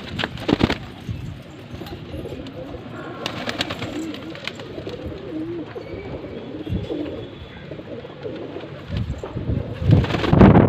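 Domestic pigeons cooing in low, wavering coos. There are a few sharp knocks or rustles at the start, and a louder burst of them near the end.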